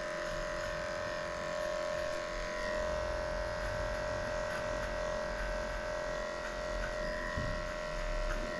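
Electric dog grooming clipper running steadily with a constant hum as it shaves off matted coat.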